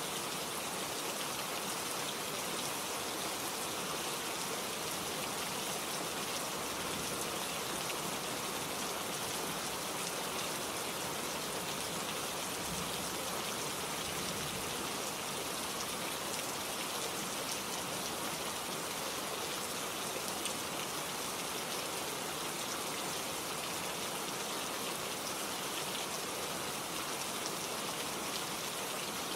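Steady rain falling and pattering on surfaces, an even hiss of many drops with no letup.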